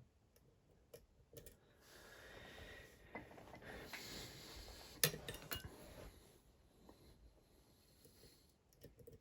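Faint, scattered metallic clicks and taps of lock-picking tools working the pins of a Dom IX Twinstar half-euro cylinder. A few seconds of soft hissing noise run through the middle, and the sharpest click comes about five seconds in.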